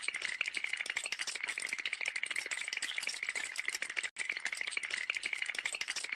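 A dense, rapid rattling of fast clicks, with a brief break about four seconds in.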